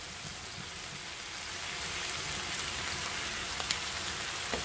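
Sliced onions and tomatoes sizzling steadily in a frying pan, a hissing noise that grows slightly louder about a second and a half in.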